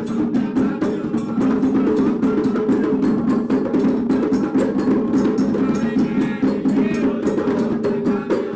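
Candomblé drumming: atabaque hand drums playing the rum rhythm for Oxum in dense, fast, even strokes, over steady held tones.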